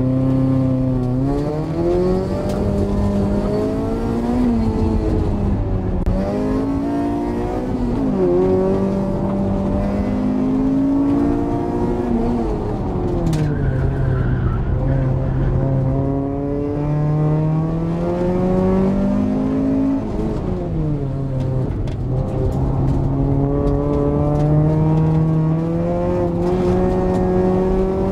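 Honda Civic's B18C four-cylinder engine, heard from inside the cabin, revving hard during an autocross run. It climbs in pitch under acceleration and drops back as the throttle lifts or gears change, over and over. There is a brief tyre squeal about halfway through.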